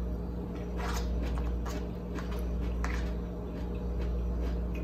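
Close-up chewing and wet mouth sounds of a person eating shredded cabbage, with a scattering of short clicks and smacks, and the plastic fork scraping in a takeaway container near the end. A steady low hum lies underneath.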